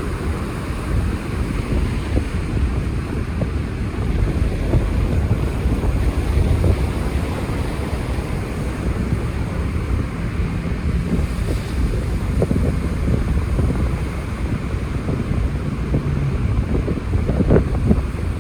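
Wind buffeting the microphone over surf washing in at a river mouth, a steady rumbling noise throughout.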